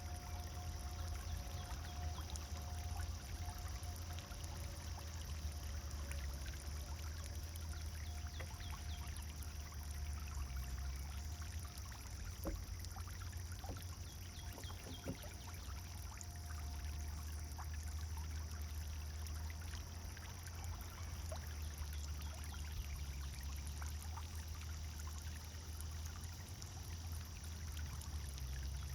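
Pond fountain splashing and pouring steadily into the water, with a low rumble underneath.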